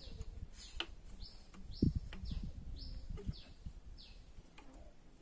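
A small bird chirping over and over in short, high, falling notes, about one every half second to two-thirds of a second, pausing near the end. Low dull knocks from the engine parts being handled sound under it, the loudest about two seconds in.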